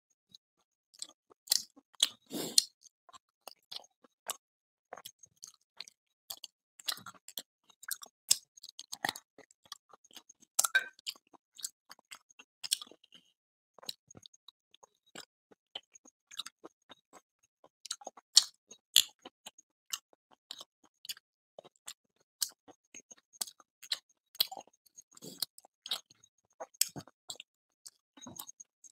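A man chewing and smacking his lips as he eats chicken curry with luchi by hand: irregular wet clicks and smacks, now and then several a second, with a louder burst about two seconds in and again past the middle.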